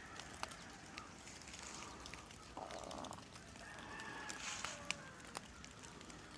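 Faint outdoor ambience with scattered light ticks and faint distant bird calls.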